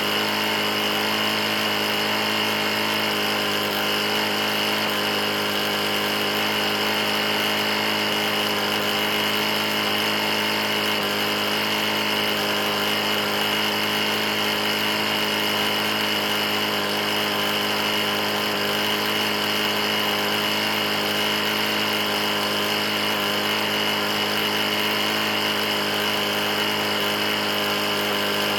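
Briggs & Stratton lawn mower engine running steadily at constant speed. It has a bad knock, having been run nearly out of oil.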